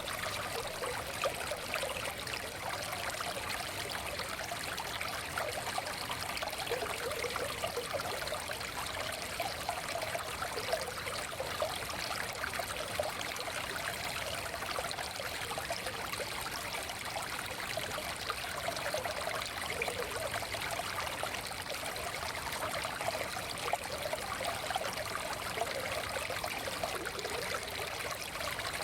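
Small forest stream flowing steadily over stones, a continuous babbling and trickling of water.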